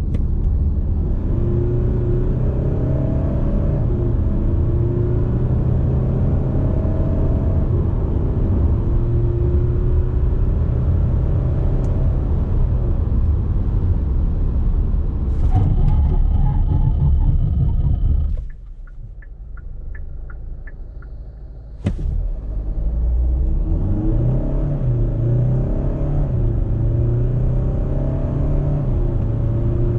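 2021 Kia Sorento's 2.2-litre turbo-diesel four-cylinder engine running while the SUV is driven, a steady low drone. About two-thirds of the way through it drops to a quieter stretch of a few seconds with a row of faint regular ticks. A sharp knock ends that stretch and the engine sound returns.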